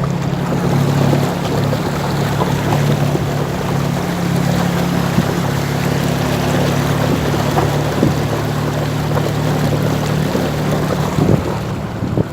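Heavy rain and water running, a dense steady hiss, with a steady low hum underneath and a couple of brief knocks near the end.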